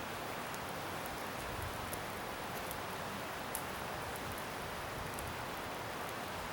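Garden bonfire of scrap wood burning with a steady hiss and scattered small sharp crackles, one louder pop about three and a half seconds in.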